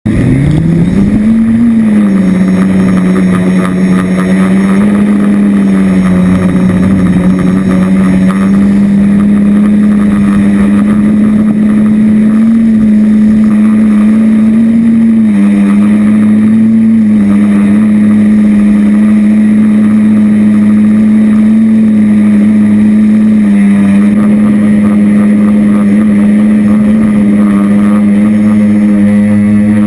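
Quadcopter's four stock DJI brushless motors and 10x5 propellers, heard from the onboard GoPro: a buzzing hum that rises in pitch over the first two seconds as the motors spool up, then holds steady with small rises and dips in pitch as the Naza flight controller corrects in gusty wind.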